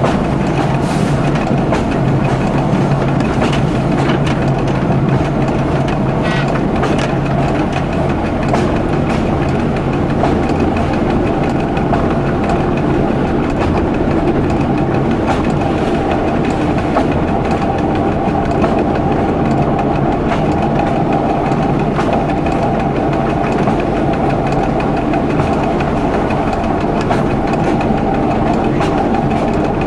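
Diesel local train running along the track, heard from the driver's cab: a steady engine hum with light wheel clatter over the rails.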